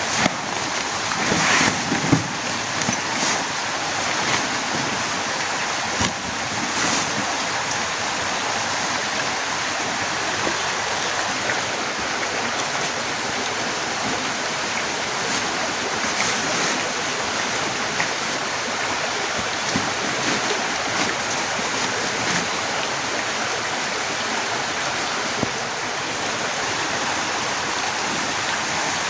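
Heavy rain pouring down steadily, a dense, even hiss, with a few sharper taps of drops in the first several seconds.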